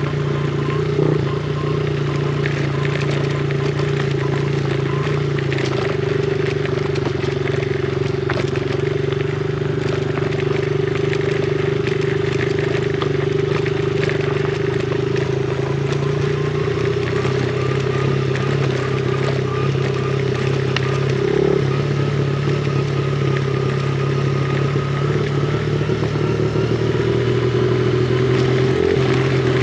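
Yamaha TT-R50E pit bike's small four-stroke single engine running at a steady speed while riding. The note dips briefly about two-thirds of the way through.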